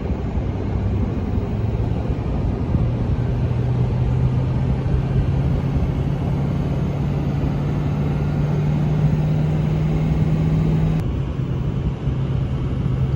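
Pickup truck driving on the highway, heard from inside the cab: steady road noise under a low engine hum. The hum rises in pitch in the first three seconds, holds, and drops a step about eleven seconds in.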